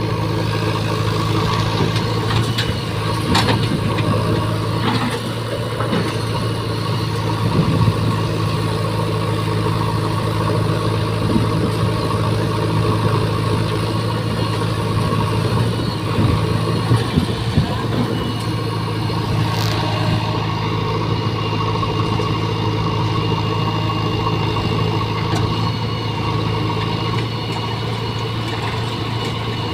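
Diesel engine of a JCB 3DX backhoe loader running steadily at an even speed, with a few short knocks.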